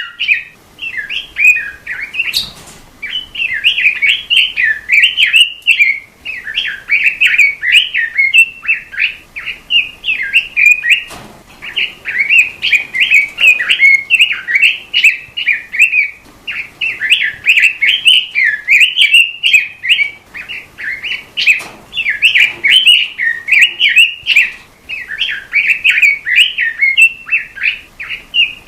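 A songbird kept as a 'robin' in Indonesian bird-keeping, singing a fast, loud, nearly continuous warbling song in long phrases with brief pauses, recorded as tutor song for training caged birds. A few faint clicks sound under it.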